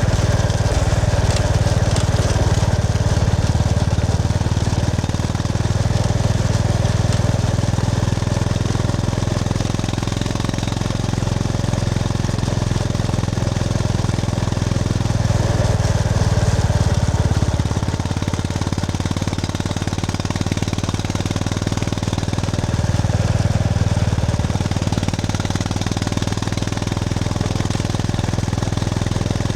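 Honda GB350S's air-cooled single-cylinder engine running under way, its low thumping exhaust note swelling and easing a few times as the throttle changes.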